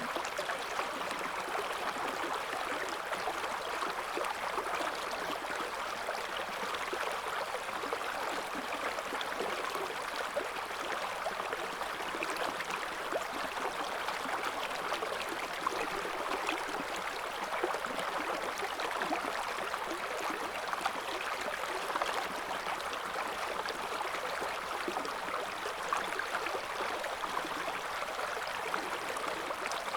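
River water flowing over stones: a steady rushing babble with small splashes and gurgles throughout.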